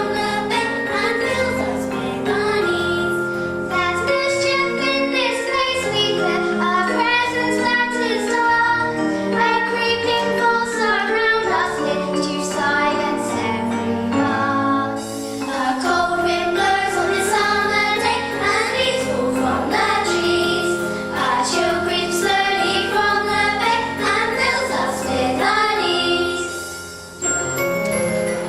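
Children singing a musical-theatre song in chorus with instrumental accompaniment. The music dips briefly just before the end.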